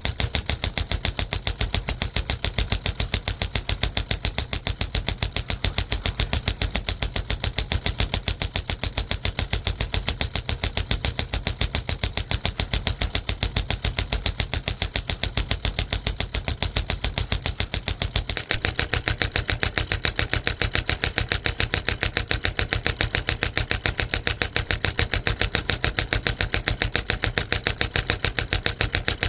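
Homemade solenoid engine running: a magnet piston driven by a copper coil inside a syringe cylinder, turning a shaft. It makes a fast, even clicking rattle of many strokes a second.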